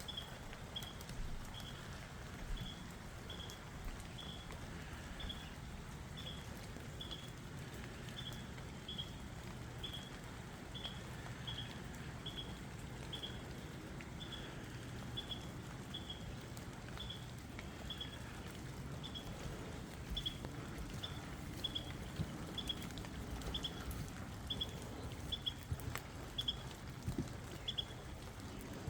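Light rain patter with scattered drips, which get more frequent in the second half. Over it, a short high chirp repeats steadily, about one and a half to two times a second.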